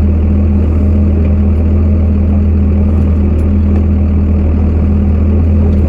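Farm truck's engine running with a steady low drone and an even hum.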